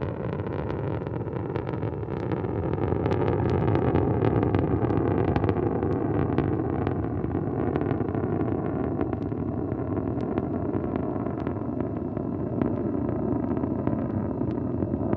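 Soyuz 2.1a rocket's first-stage and strap-on booster engines heard in powered ascent: a dense, continuous rumble with sharp crackling, growing louder about three seconds in.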